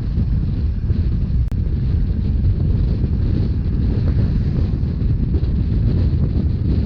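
Moving narrow-gauge Rhaetian Railway train: steady wind buffeting the microphone over the low rumble of the train running along the track. A brief click about a second and a half in.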